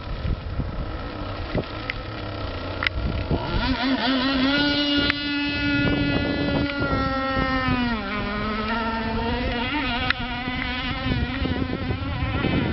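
Radio-controlled model speedboat's motor running at high revs with a high-pitched whine: it speeds up about three and a half seconds in, holds steady, then drops in pitch near the eight-second mark as the throttle eases and keeps running lower.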